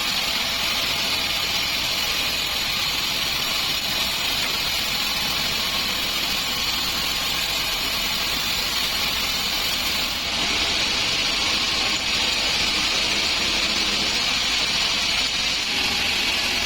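Large sawmill band saw running with a steady, even mechanical noise that has a strong hiss in the upper range, becoming louder and brighter about ten seconds in.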